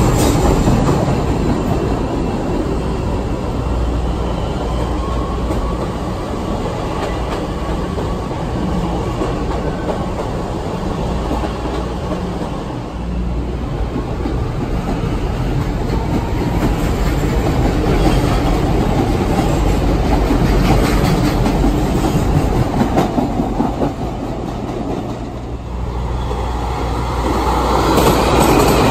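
CTA 5000-series electric rapid-transit trains running at an elevated station. The sound grows louder over the last few seconds as a train moves along the adjacent track.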